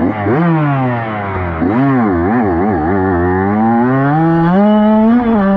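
Dirt bike engine revving: the pitch drops, then rises and falls four or five times in quick blips, then climbs steadily and holds higher near the end as the bike pulls away.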